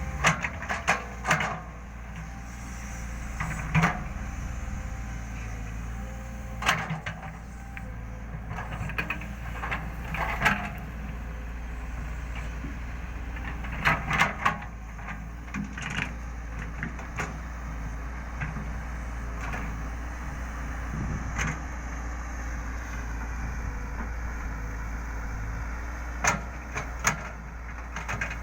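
Excavator's diesel engine running steadily under load, with scattered sharp knocks and clanks, some in quick clusters, as it digs and loads soil into a truck.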